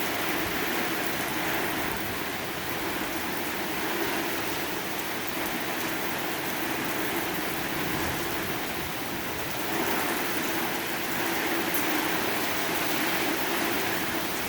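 Strong thunderstorm wind with rain: a steady rushing noise that swells slightly about ten seconds in. The gusts are estimated at around 50 mph.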